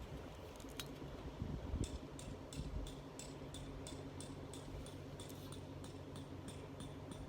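Faint, regular ticking, about three ticks a second, over a steady low hum; the ticking starts about two seconds in and stops shortly before the end.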